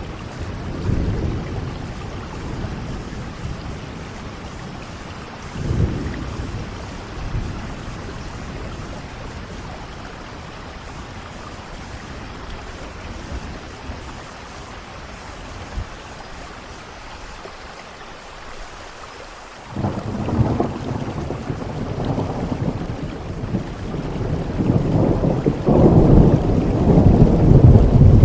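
Steady rain with rolling thunder: low rumbles about one and six seconds in, then a sudden loud crack of thunder about two-thirds of the way through and a long, loud rumble building near the end.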